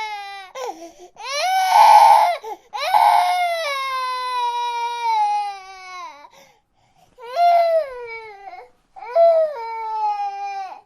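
Infant crying in a series of long wails, each sliding down in pitch, with short breaks for breath between them; the loudest cry comes about two seconds in.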